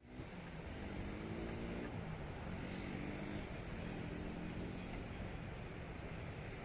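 Distant motorcycle engines rising in pitch as they accelerate, twice, over a steady hiss.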